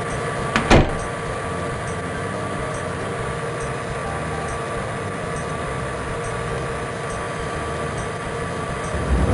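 Steady rumble of a train running on the rails, with a faint regular clicking. Two sharp knocks come just under a second in.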